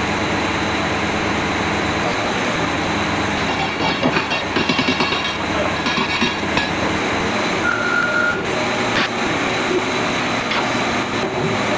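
Heavy diesel machinery running steadily, with a stretch of metallic rattling and clanking in the middle.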